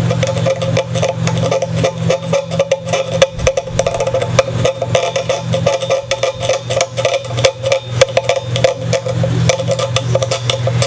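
Old glue being scraped out of a guitar's nut slot: a quick, uneven run of scratching clicks of the tool against the wood.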